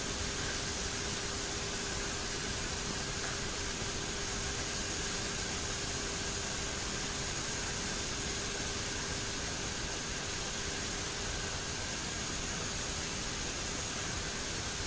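Steady cockpit noise of a turboprop airliner climbing: an even rush of air with a low steady hum and a faint high whine.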